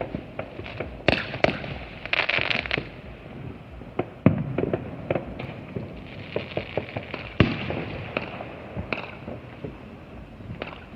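Backyard fireworks going off: a scattered run of sharp pops and bangs with bursts of crackling. The loudest bangs come about four seconds in and about seven seconds in.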